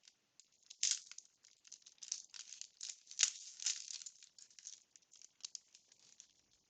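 Baseball trading cards being handled and flicked through by hand: a run of light clicks and rustles, irregular and close together.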